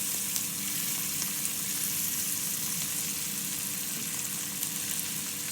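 Flour-and-egg coated chicken pieces frying in hot oil: a steady sizzling hiss with fine crackles.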